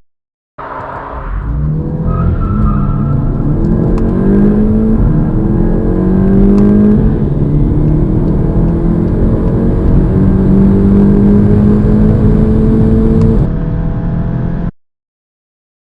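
Volkswagen Golf GTI's turbocharged 2.0-litre four-cylinder under full-throttle acceleration from a standstill. Its pitch climbs and drops back at each of several upshifts, then the sound cuts off abruptly near the end.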